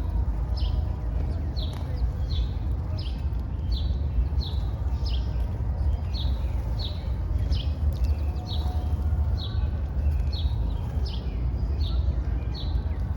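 A bird calling with short, high, downslurred chirps repeated evenly about one and a half times a second, over a steady low rumble.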